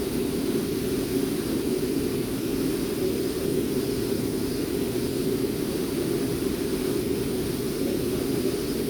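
Waterfall and rushing river water making a steady, unbroken roar.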